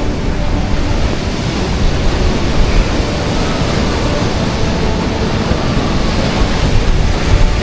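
Loud, steady rushing noise with a heavy low rumble, without rhythm or any distinct tone.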